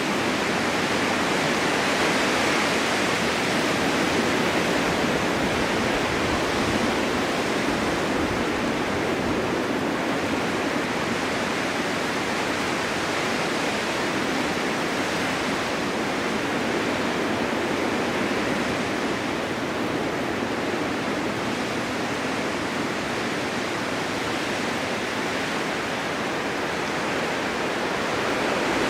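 Blizzard wind driving blowing snow: a dense, steady rushing hiss that swells and eases slightly.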